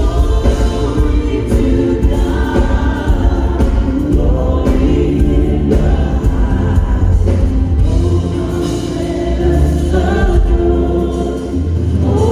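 Gospel choir singing over a band with a steady bass and drum beat, a Christmas song.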